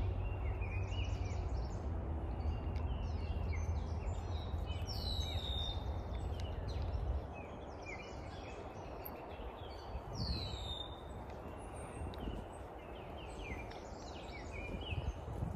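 Songbirds chirping and calling again and again, with two clear downward-sliding whistles, over a steady low rumble that drops away about halfway through.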